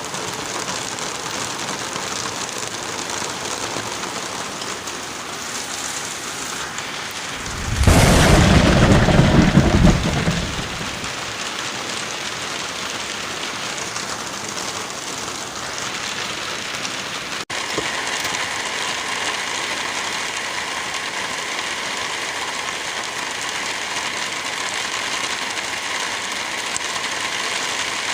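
Steady rain with a single loud rumble of thunder about eight seconds in, lasting around three seconds. The rain sound cuts out for an instant past the middle, then carries on.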